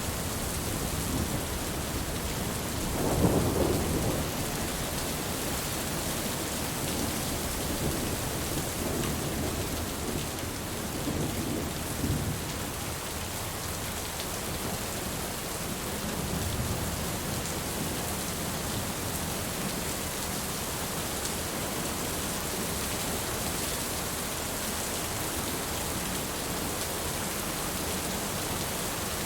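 Steady rain with low rumbles of thunder, the strongest about three seconds in and weaker ones later on.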